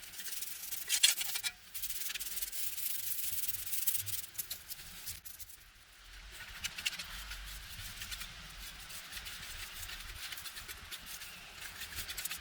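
Scratchy rubbing against a hard surface, a dry hiss full of small clicks, pausing briefly about halfway through and then starting again.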